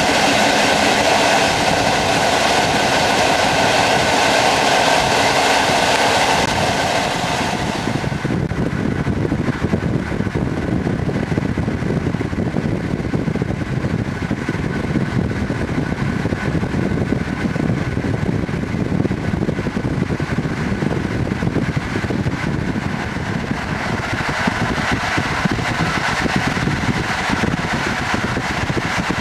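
Train running on the rails: a loud rushing noise with a steady whine for about the first seven seconds, then easing to a lower, steady rumble.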